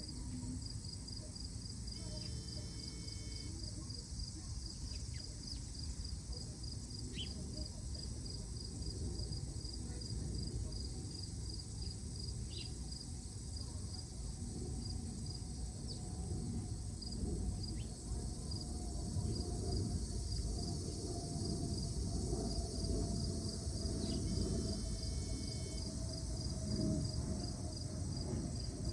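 An insect chirping steadily in an even train of high pulses, about five a second, over a low rumble. A few short chirps sound now and then.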